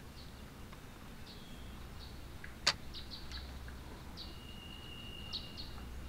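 Small birds chirping in short high calls, with one held whistle-like note near the end, over a steady low background rumble. A single sharp click sounds a little before the halfway point.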